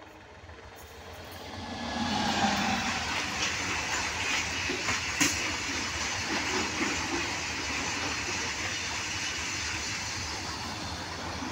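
Freight train's open-top wagons rolling past close by: a steady rumble of wheels on rail that swells about two seconds in, with a few sharp knocks and clatter over the rail joints.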